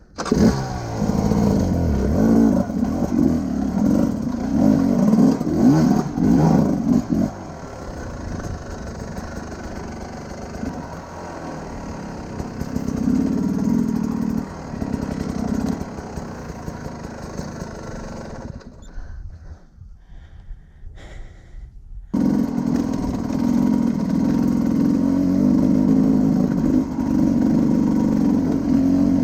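Motorcycle engine running under way: the pitch rises and falls with throttle over the first several seconds, then settles into a steadier drone. About two-thirds of the way through the sound drops away for a few seconds, then comes back abruptly as a loud, steady run.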